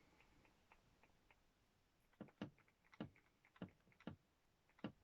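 Faint, uneven taps of gesso being patted onto a hardback book cover, starting about two seconds in and coming roughly once or twice a second.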